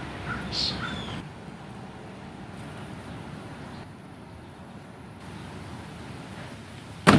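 Outdoor background noise with a few short bird calls and a falling whistled note in the first second, then a low steady rumble of distant traffic. A single sharp click comes just before the end.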